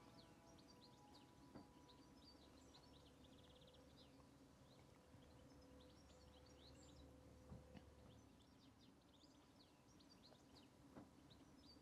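Near silence: quiet outdoor ambience with small birds chirping faintly and often, and a few soft knocks about a second and a half in, at seven and a half seconds, and near the end.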